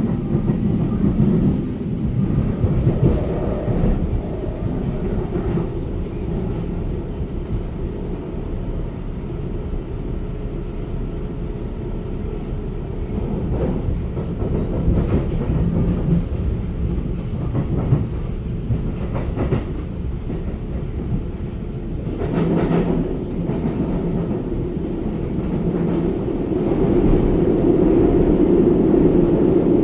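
Taiwan Railway EMU900 electric multiple unit running along the track, heard from on board: a steady rumble of wheels on rail with scattered clicks over rail joints. It grows louder near the end.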